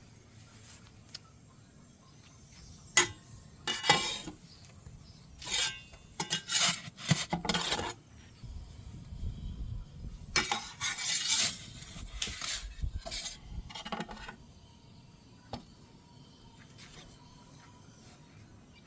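A metal pizza peel scraping and clinking against a pizza oven's floor in two spells of quick strokes, the second ending about two-thirds of the way in, over a low rumble.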